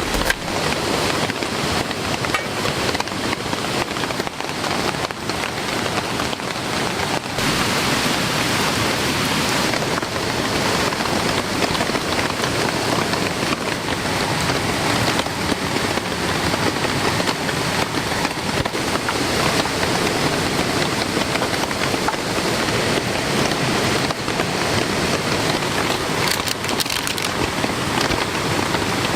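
Heavy rain falling steadily, a dense even hiss of drops, with sharper individual drop hits standing out in the first several seconds.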